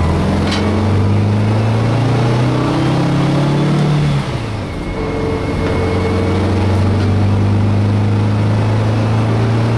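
Volkswagen bus's 1600 air-cooled flat-four engine under way, its pitch rising as it pulls through a gear. About four seconds in it drops off briefly, as in an upshift, then runs on steadily at a lower pitch.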